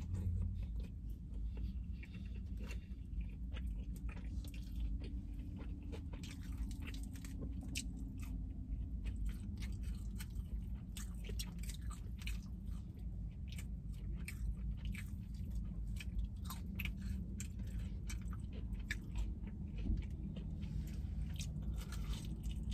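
Close-up eating sounds: biting and chewing crispy fried chicken, with many short crunches and crackles throughout. A steady low hum runs underneath.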